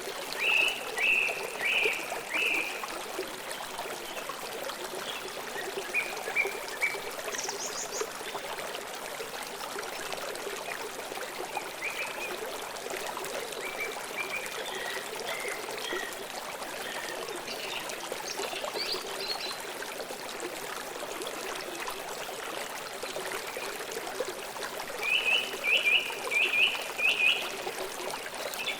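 Steady rush of a flowing stream, with a bird chirping in quick runs of about five notes near the start and again near the end, and scattered single chirps between.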